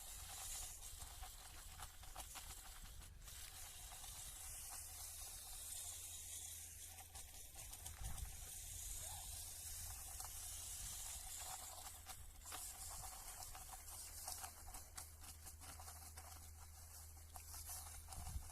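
Small electric motor and plastic gears of a CaDA building-brick tractor running, a faint steady whine with scattered small clicks and hiss.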